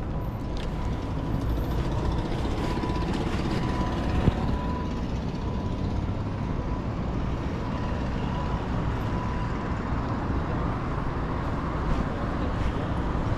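City street traffic noise heard from a moving bicycle, with rumbling wind on the microphone, a faint on-and-off high beeping throughout, and one sharp click about four seconds in.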